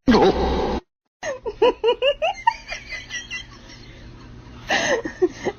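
A person laughing: a loud short cry falling in pitch at the start, then after a sudden break a quick run of short laughing bursts that trails off, and another loud burst of laughter near the end.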